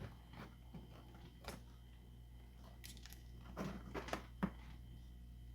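Faint scattered clicks and light knocks of handling over a low steady hum, one click about a second and a half in and a small cluster of them near the middle to end.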